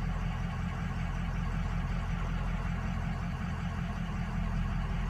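Turbo-diesel V8 work truck engine idling steadily. Cylinders 2 and 7 are dropping out on the contribution balance, and the mechanic takes this for bad injectors.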